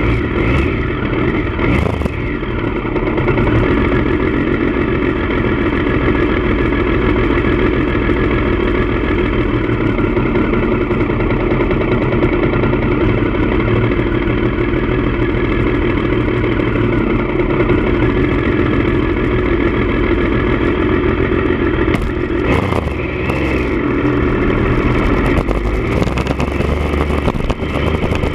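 Triumph Daytona 955i's three-cylinder engine running steadily through an aftermarket D&D exhaust.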